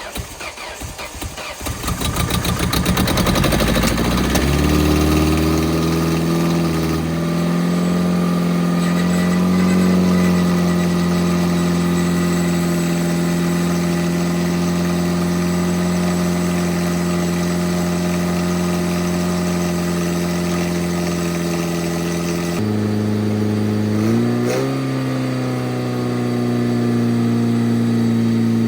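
Ford Focus ZX3 four-cylinder engine, a junkyard replacement just swapped in, cranked by the starter for about two seconds before it catches. It rises to a steady fast idle, and its note shifts twice a few seconds before the end. The idle is far too high, which the owner puts down to either the idle air control valve or a vacuum leak.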